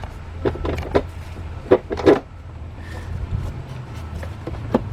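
Clicks and knocks of a plastic intake hose being worked onto its fitting on an engine's air intake: a handful of sharp taps, the loudest pair about two seconds in, over a steady low hum.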